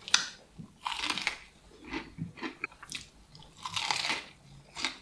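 Close-up eating sounds from a person biting into and chewing a crispy breaded KFC hot wing: a run of irregular crunches of the fried coating, with chewing between them.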